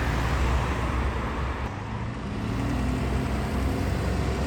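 Bus diesel engine running at low revs among road traffic, a steady low drone with a faint tone creeping up in pitch about halfway through.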